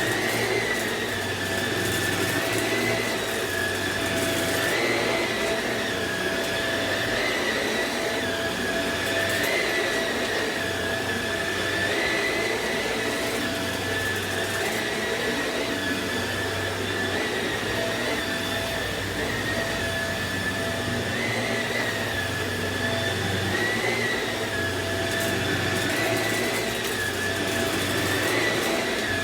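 Samsung CycloneForce upright vacuum running steadily, its motor whine rising slightly and falling back about every two seconds as it is pushed back and forth.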